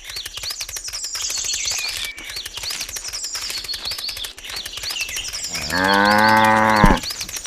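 A cow moos once near the end, a single low call lasting about a second, over high-pitched chirping that repeats throughout.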